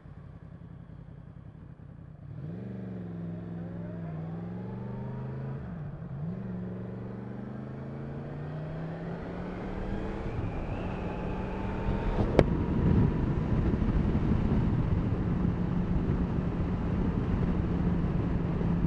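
Yamaha MT10SP's crossplane inline-four engine pulling away and accelerating, its pitch rising, dropping sharply at a gear change about six seconds in, then climbing steadily again. Rush of wind grows louder as speed builds, with a sharp click about midway.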